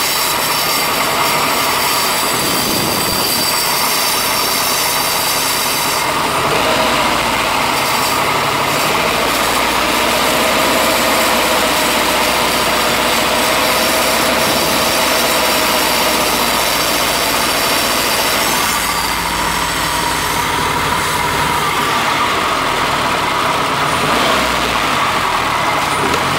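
Ford Ranger's 2.3 L Duratec four-cylinder engine running steadily with its throttle held slightly open by hand while Seafoam is drawn in through a vacuum line. The engine note shifts a little about six seconds in and again near two-thirds of the way through.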